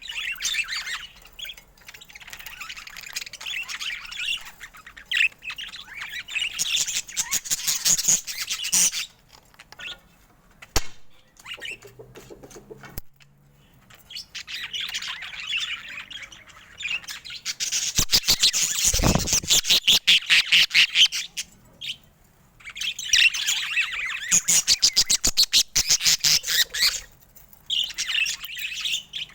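Budgerigars chattering and warbling in long, rapid bursts, broken by short pauses. There is a brief dull thump about two-thirds of the way through.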